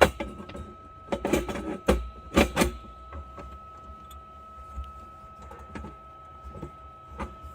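Clatter of tools and parts being handled during repair work: several sharp clacks and knocks in the first three seconds, then lighter scattered taps, over a steady high whine.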